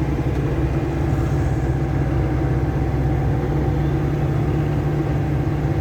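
Cummins diesel engine of a heavily loaded GAZelle light truck, heard from inside the cab, running steadily with a constant low hum and road noise.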